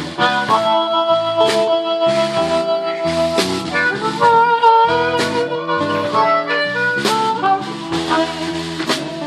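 Live blues band playing an instrumental break, led by a harmonica: one long held note, then bent, wavering notes, over the band with drum hits.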